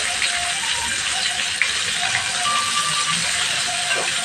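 Breaded chicken pieces shallow-frying in hot oil in a wok: a steady sizzle with scattered crackles and pops.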